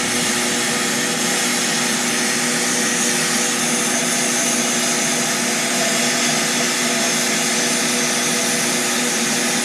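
Sandblast cabinet running: a steady hiss of compressed air and blast media over a constant motor hum.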